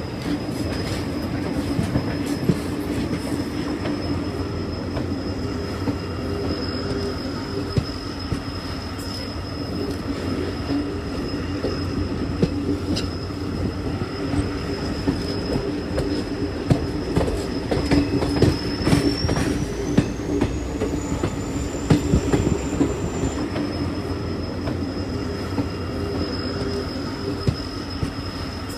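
Indian Railways train running on the track: a steady rumble with rattling and knocks, busier between about seventeen and twenty-three seconds. A thin high whine runs throughout; it slides up in pitch about nineteen seconds in and drops back about four seconds later.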